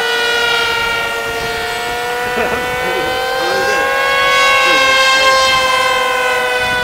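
Hobbyking Bonsai EPP flying wing's small brushless motor (AX 1806N, 2500 kV) and GWS 5043 propeller whining in flight, a steady high buzz that drifts slowly up and down in pitch.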